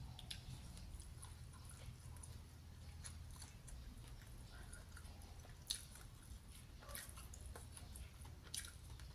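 A person chewing food close to the microphone, faint, with a few soft crunchy clicks in the second half.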